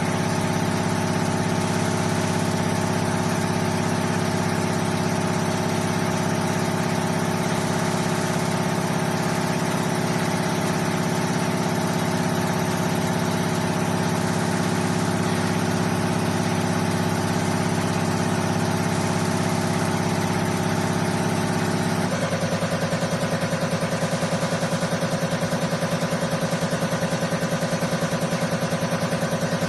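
Common rail injector test bench running: its motor and pump give a steady mechanical hum made of several tones. About three-quarters of the way through, the pitch shifts and a fast, even pulsing sets in.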